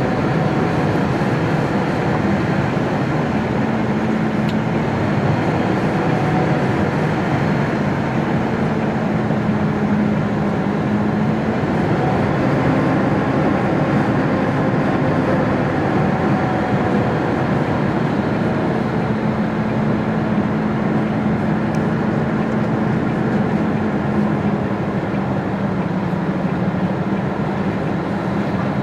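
MAN TGX lorry's diesel engine running, heard from inside the cab as a steady drone whose pitch rises and falls a little.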